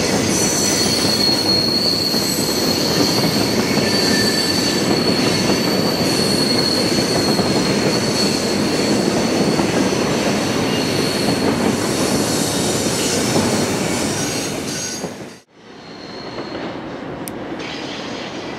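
Freight cars rolling past on steel rails: loud, steady wheel-on-rail noise with a sustained high-pitched wheel squeal that fades out. About 15 seconds in, the sound cuts to a quieter, more distant rumble of the train rolling away.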